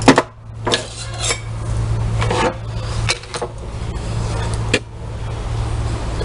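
Metal parts of a dismantled washing machine transmission clinking and knocking as they are handled, with a sharp knock right at the start and several lighter clinks after it, over a steady low hum.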